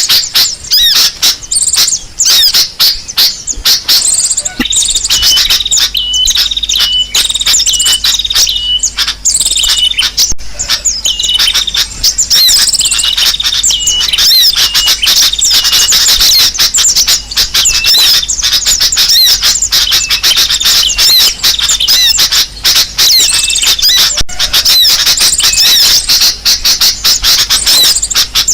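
Bird-lure recording of many birds calling at once: a loud, dense chorus of overlapping high chirps and squawks. From about four seconds in, a run of short notes repeats about every half second among the chatter.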